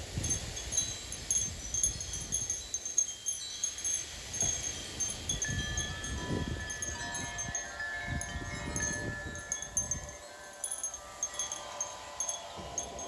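Wind chimes ringing in strong gusts of about 30 mph ahead of a shelf cloud: quick high tinkling throughout, with several deeper tones ringing on and overlapping from about halfway. Gusts of wind rumble in and out underneath.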